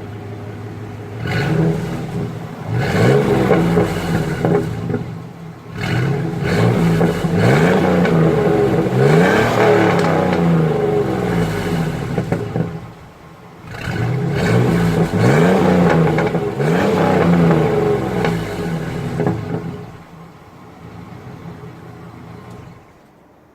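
2004 Chevrolet Silverado 1500's 4.3-litre V6 engine revved through its exhaust in three spells of repeated blips, the pitch rising and falling with each rev, then dropping back to a steady idle near the end. The exhaust sounds pretty beefy, which makes the owner doubt it is the original system.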